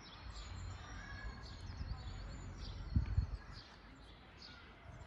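Forest songbirds chirping and singing, many short high notes overlapping, over a steady low rumble. About three seconds in there are two quick low thuds, the loudest sounds here.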